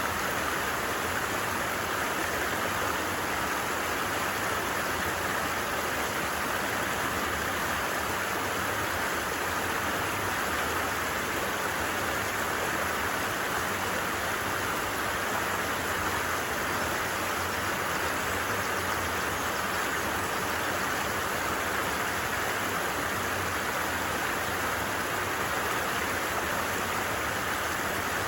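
A creek running, its water making a steady, even rush with no pauses or changes.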